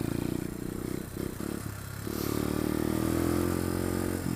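Pit bike engine running under throttle, with a few knocks and brief dips in the first half, then its pitch rising steadily as it accelerates.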